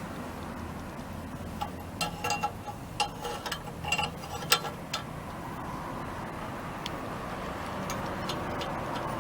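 Car engine idling with a steady low hum, with a run of sharp clicks and rattles from about two to five seconds in.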